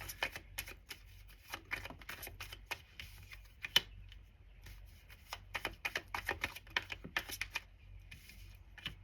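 Tarot cards being shuffled by hand, in runs of quick card slaps and flicks, pausing briefly about four seconds in before a second run.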